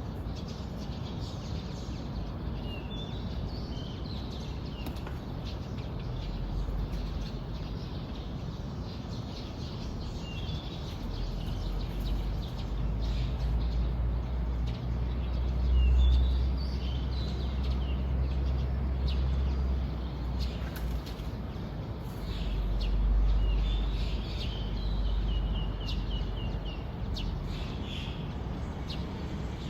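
Small birds chirping and calling in short phrases, with one run of quick repeated notes near the end. Underneath is a low rumble that swells twice and fades.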